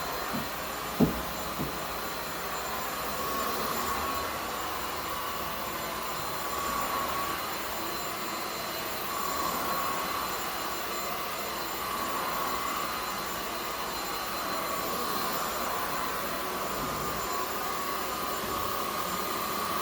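Zoker A10 Pro cordless stick vacuum running on its highest power setting: a steady rushing hiss with a high motor whine that swells and eases a little as it is pushed along. A sharp click about a second in.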